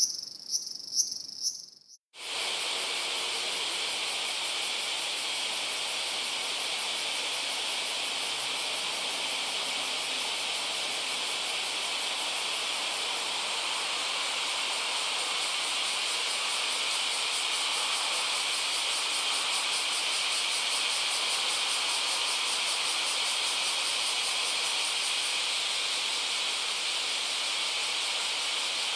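Crickets chirping in short, evenly repeating high chirps; about two seconds in this gives way abruptly to a dense, steady chorus of insects trilling rapidly.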